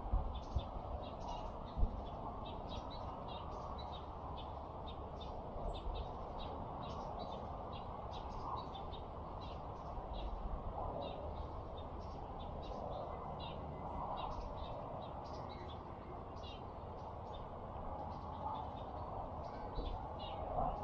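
Small birds chirping: many short, high notes all through, over a steady low background rumble, with one sharp knock about two seconds in.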